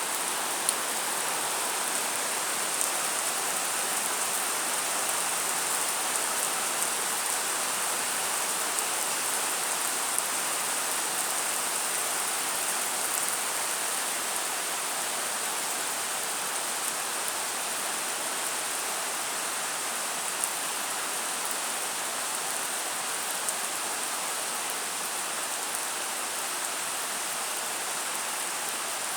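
Steady summer rain falling, an even hiss with occasional louder single drops.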